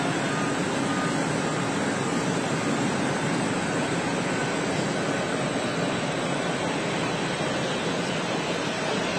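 Jet aircraft engines running on an airport apron: a steady, even rushing noise with a faint whine.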